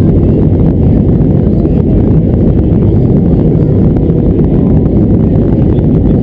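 Airbus A320 cabin noise: a loud, steady low rumble of the jet engines and rushing air, with no change in level.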